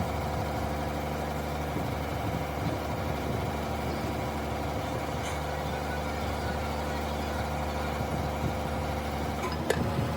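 A large engine idling steadily, with a single sharp click near the end.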